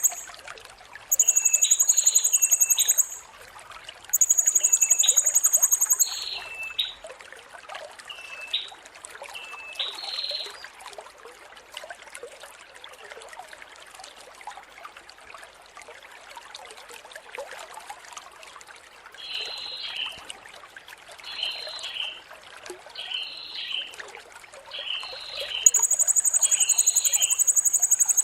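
Blue-crowned hanging parrot (serindit) song: shrill, buzzy trilled phrases of about two seconds each, three in the first six seconds and one near the end. Shorter chirps repeat about once a second between them, over a steady hiss.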